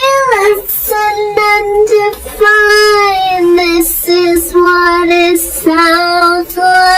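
A high, childlike or female solo voice singing held notes with little or no accompaniment.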